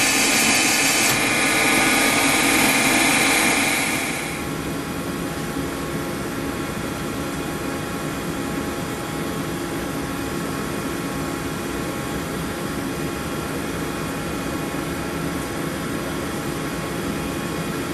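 Machine tool running: loud cutting noise over a steady whir that stops about four seconds in, leaving the machine humming steadily with several fixed tones.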